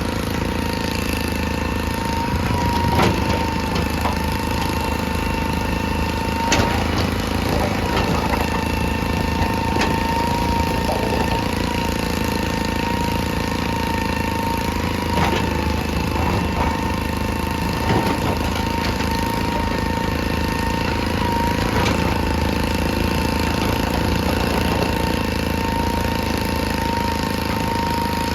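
Excavator's diesel engine running steadily with a constant high whine, and occasional sharp knocks every few seconds as rock is worked.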